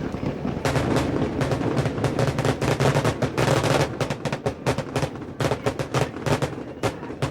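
Aerial fireworks going off in a rapid barrage of sharp bangs and crackles, many reports a second, heaviest a second or two in. These are noisemaker shells, fired for their bangs, heard over a low steady hum.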